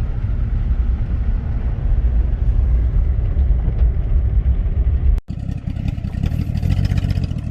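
Pickup truck engine running at low speed under load, a steady low rumble, while pushing a stalled truck. About five seconds in the sound drops out for an instant and comes back busier and a little higher.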